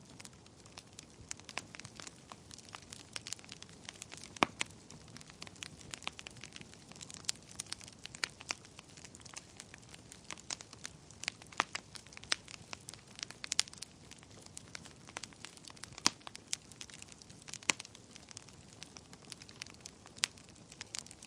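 Wood fire burning in a fireplace: a steady low hiss under constant irregular crackling and popping of the logs, with a few louder pops.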